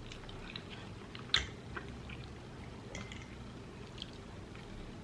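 A person chewing food with soft, wet mouth clicks and smacks, one sharper click a little over a second in.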